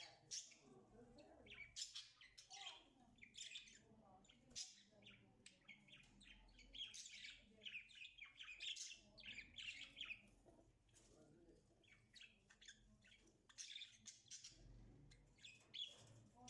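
Budgerigars chirping and chattering faintly, a stream of quick, irregular calls.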